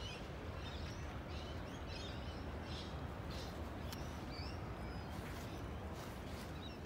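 Small birds chirping in quick, short calls, frequent at first and thinning out after about four seconds, over a steady low outdoor background hum.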